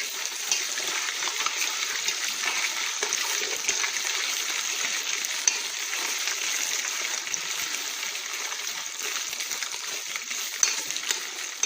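Tomato paste sizzling as it fries in hot oil in a pot, a steady hiss as it is stirred, with a couple of sharp clicks of the spoon against the pot.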